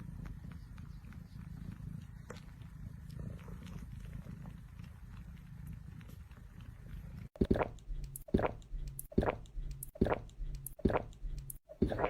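A cat purring steadily in a low rumble. About seven seconds in it cuts off, and a run of short, sharp crunching sounds follows, about two a second.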